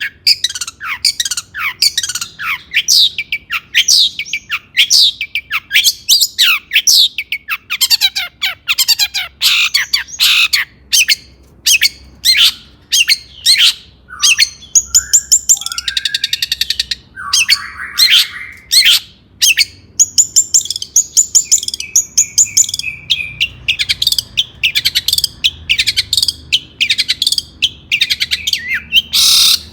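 Long-tailed shrike (cendet) singing a fast, varied song: rapid sharp notes sweeping downward, broken twice by harsh rasping chatters.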